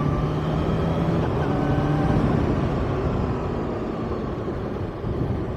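Kawasaki ZX-6R inline-four sport bike engine running while riding along, with wind noise. The engine note breaks and picks up again at a new pitch about a second and a half in, then slowly eases off.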